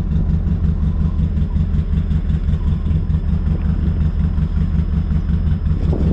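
ATV (four-wheeler) engine idling steadily while being warmed up on a cold day.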